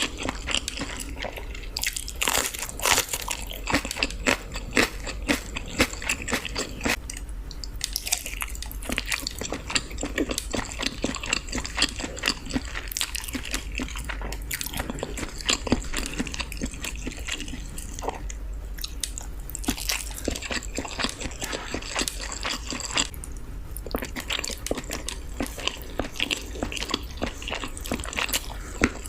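Close-miked ASMR eating sounds: a person biting and chewing food, with an irregular run of short mouth clicks throughout.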